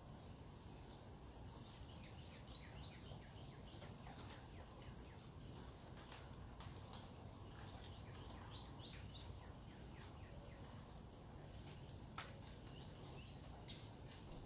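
Faint bird calls outdoors: clusters of short, quick chirps over a steady low background hum.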